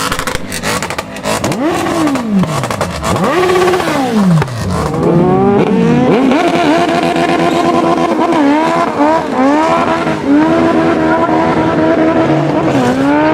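High-performance car engine with a loud aftermarket exhaust: sharp crackles and a few quick revs, then a hard acceleration whose note climbs and drops at each of several quick upshifts.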